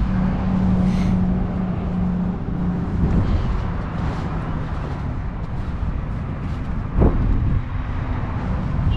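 A vehicle engine running steadily, its hum dropping slightly in pitch about three seconds in, over outdoor background rumble. A single sharp thump about seven seconds in.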